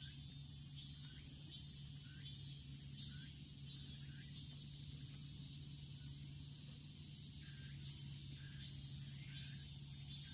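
An animal calling in woodland: short high chirps repeated about twice a second, over a steady low hum.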